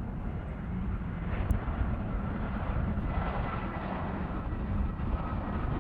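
Jet airliner engines running: a steady low rumble, with a faint high turbine whine coming in about halfway through.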